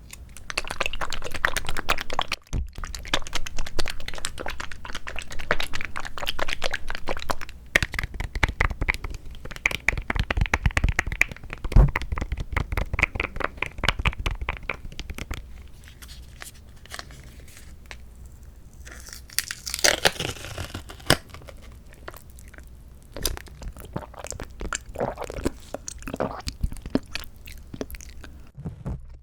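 Close-miked eating of canned mandarin orange segments: dense, wet, clicky chewing and mouth sounds for the first half, then quieter, sparser bites. A brief rustle comes about twenty seconds in.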